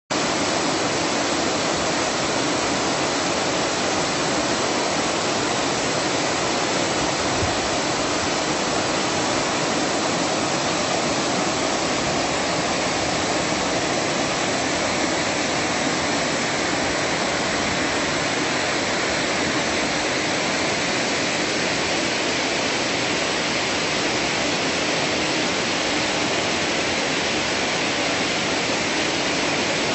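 Stream water running fast, a loud, steady, even rush of water that does not let up.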